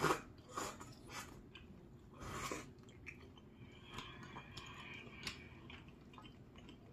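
A person chewing a mouthful of spicy ramen noodles and chewy rice cakes (tteok), in short faint bursts with a few soft clicks. It grows quieter after about two and a half seconds.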